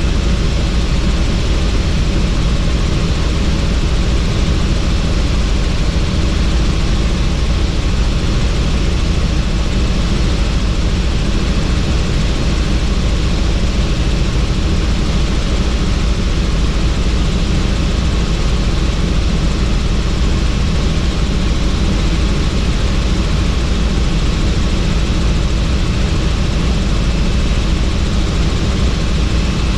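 Helicopter in flight with the doors off, heard from on board: a steady, unbroken din of engine and rotor with rushing wind.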